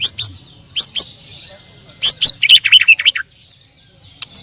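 White-rumped shama (murai batu) singing loudly: sharp whistles sweeping downward, several in quick pairs, then a rapid chattering run of notes about two and a half seconds in, followed by softer song.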